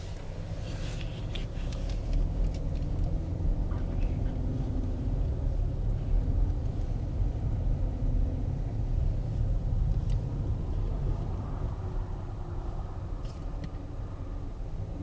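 Car driving along, a steady low road-and-engine rumble that builds up in the first couple of seconds, with a few faint clicks.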